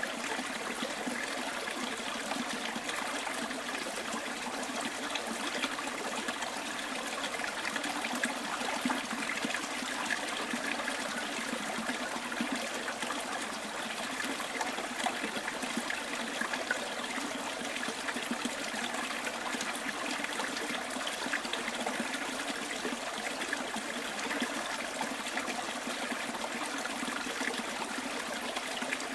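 Small stream flowing over stones, a steady bubbling trickle of water.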